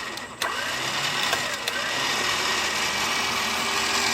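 Electric winch running steadily, its motor and gear drive spooling in the synthetic winch line under light tension.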